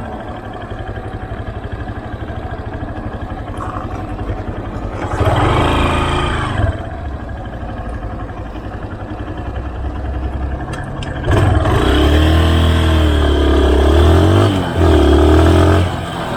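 Motorcycle engine running, revving up briefly about five seconds in, then growing loud from about eleven seconds as it accelerates, its pitch rising, dropping and rising again.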